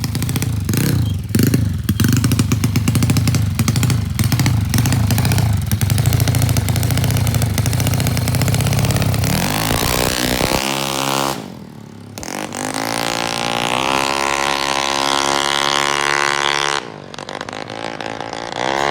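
Yamaha Mio scooter engine, bored out to 300cc, running loud and rough through a racing exhaust with a rapid crackling firing beat. About ten seconds in it is revved up to a high, steady pitch, drops off, then is revved up and held again before easing off near the end.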